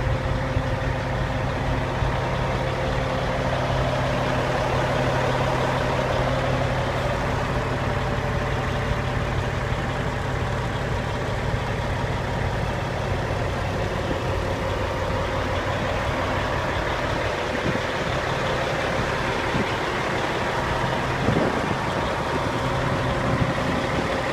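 Cat 3406E inline-six diesel of a Western Star 4900 dump truck idling steadily.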